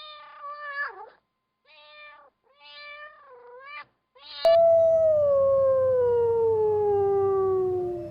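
Cats meowing: four short meows, then about four and a half seconds in a much louder, long drawn-out meow that falls steadily in pitch for over three seconds, over a low hum.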